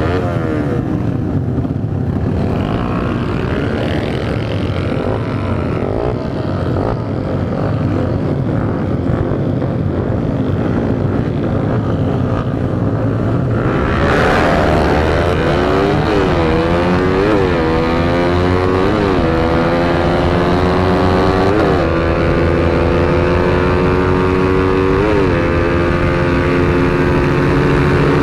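Honda Sonic 150R's 150 cc single-cylinder engine, pulling at moderate throttle at first. About halfway through it is opened up and accelerates hard: the revs climb and drop back at each of about five upshifts, with a rush of wind noise.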